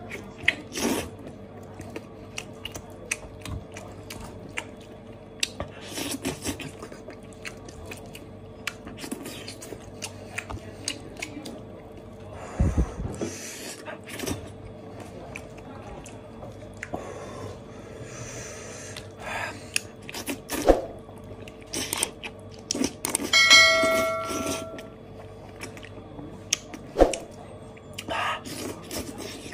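Close-up eating sounds from meat pulled off a spicy braised goat head by hand: chewing, lip smacking and sucking meat off the bones, in many short wet clicks. Late on, a brief whistling, pitched sound stands out.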